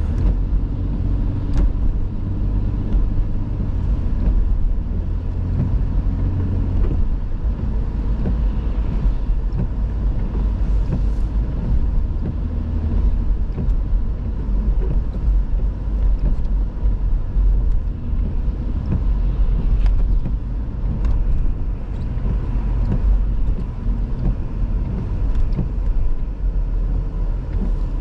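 Car driving steadily, a continuous low engine and road rumble with no distinct events.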